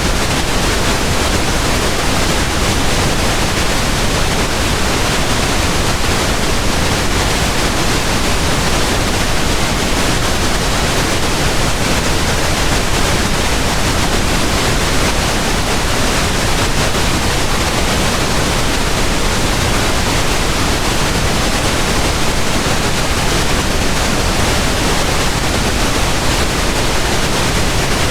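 Steady pink noise: an even, unchanging hiss spread evenly from deep to high pitches.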